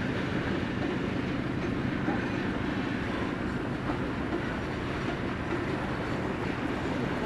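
Container freight train with its diesel locomotive running steadily, a low engine hum under even rail noise.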